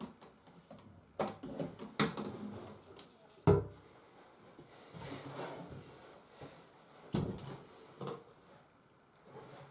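Doors of a handmade wooden toy refrigerator being opened and shut: five or so separate wooden knocks and clacks, the loudest about three and a half seconds in.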